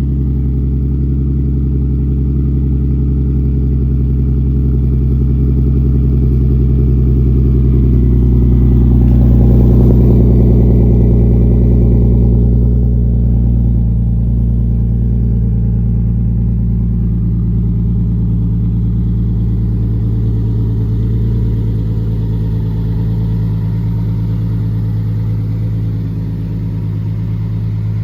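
Nissan 370Z V6 running through a Motordyne and Tomei exhaust, a steady deep exhaust note that swells louder about ten seconds in and then eases back.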